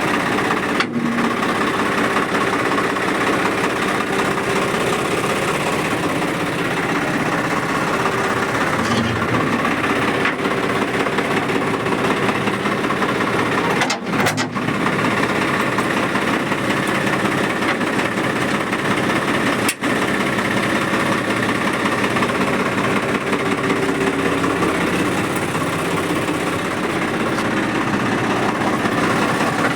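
Swaraj 855 tractor's three-cylinder diesel engine idling steadily, broken by a few very brief gaps.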